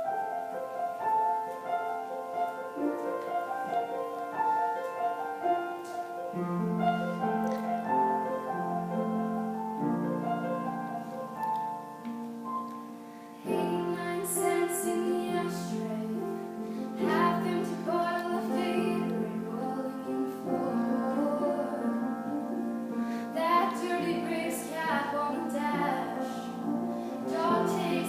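A woman singing to piano accompaniment; the music grows fuller and louder about halfway through.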